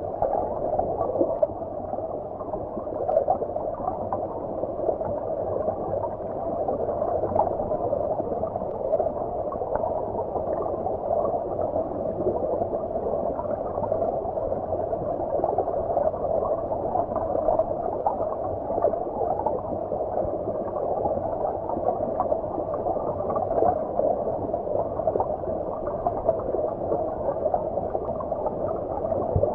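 Stream water flowing and gurgling as heard underwater: a steady, muffled rush with no treble, with small swells and flickers in level throughout.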